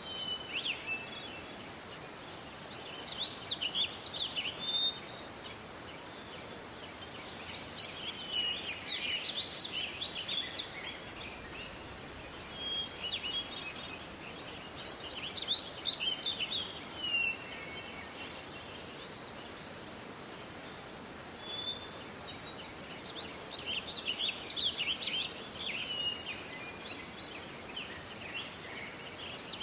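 Songbirds singing: bursts of rapid twittering phrases that come and go every few seconds, with short, high single notes in between, over a steady background hiss.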